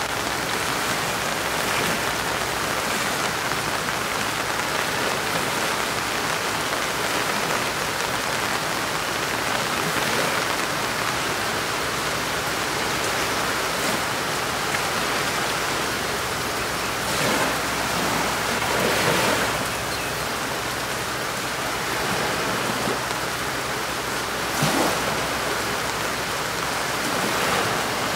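Steady rain falling, a dense even hiss, with a few louder swells in the second half.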